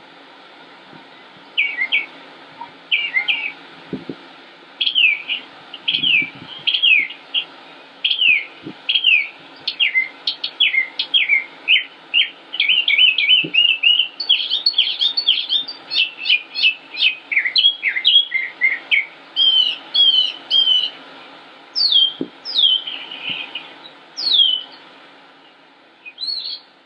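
A songbird singing a long, fast run of short, sharp, mostly downward-slurred whistled notes that grows denser in the middle and thins to a few separate phrases near the end.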